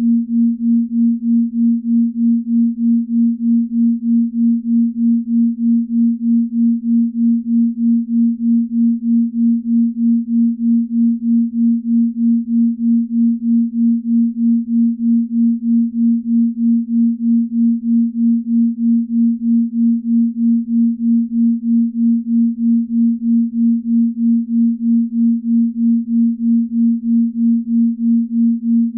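Binaural beat: a low, steady pure tone pulsing evenly in loudness about two to three times a second, the beat between two slightly detuned tones, a slow beat rate of the kind used for deep-sleep listening.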